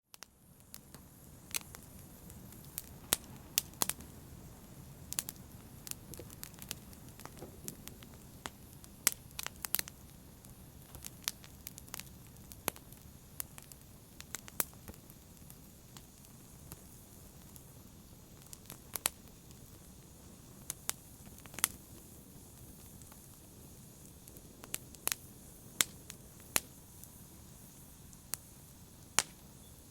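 Wood fire crackling in a fireplace: irregular sharp pops and snaps, several a second at times, over a low steady rumble of burning.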